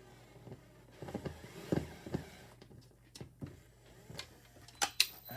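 Scattered light clicks and knocks from handling tools and a screw during keypad mounting, with two sharp clicks near the end; the drill is not running.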